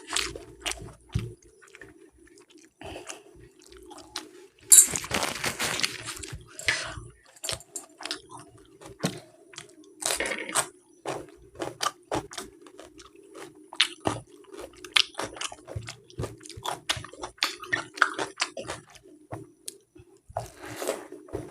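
Close-miked eating sounds: wet chewing and mouth clicks, with a couple of louder noisy bursts about five and ten seconds in, over a steady low hum.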